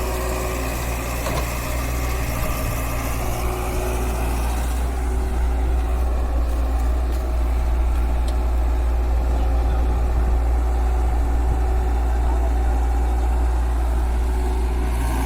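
Heavy diesel machine engine running at a steady speed, a little louder from about five seconds in.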